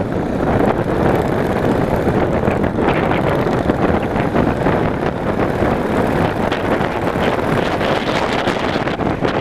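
Steady wind rush over the microphone of a Yamaha motorcycle under way, with its engine and road noise beneath.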